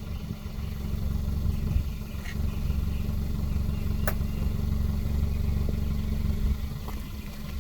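Kia Forte GT's 1.6-litre turbocharged four-cylinder running through its stock exhaust with a steady low rumble, its level swelling a little early on and easing near the end. A single sharp tick is heard about four seconds in.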